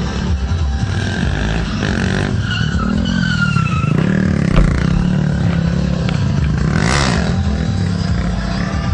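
Racing motorcycle engines running hard at high revs. A few seconds in there is a falling whine, and about seven seconds in a machine passes fast, its pitch sweeping up and then down.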